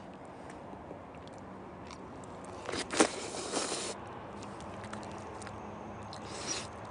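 A person biting into crunchy food and chewing: one loud crunch about three seconds in, followed by a second of chewing, and a shorter crunch near the end.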